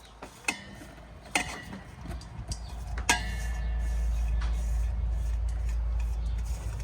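Three sharp clinks of cookware or utensils, ringing briefly, about half a second, one and a half and three seconds in. A steady low rumble sets in about two seconds in and carries on.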